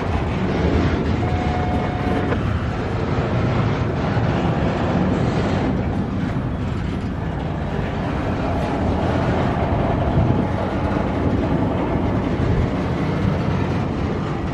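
Freight train cars rolling past on the rails, a steady rumble, with a brief thin high tone about a second in.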